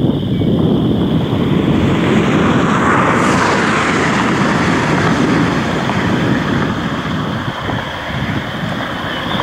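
Road and wind noise inside a moving car: a steady low rumble, with a rush of hiss that swells and fades about three seconds in.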